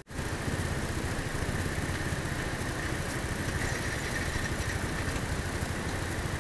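Motorcycle engine running at low revs and idling, with a steady low throb, as the bike slows to a stop in traffic.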